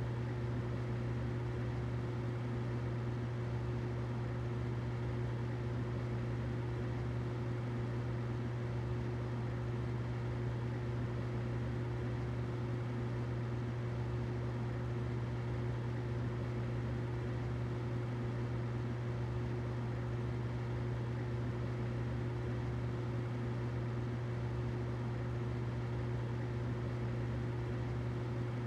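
Humidifier running steadily: a constant low hum with a fainter higher tone over an even hiss.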